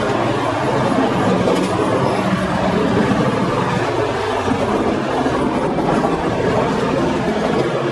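TLK passenger train running along the track at speed, a steady loud rumble of wheels and rails. The sound is likely played at double speed.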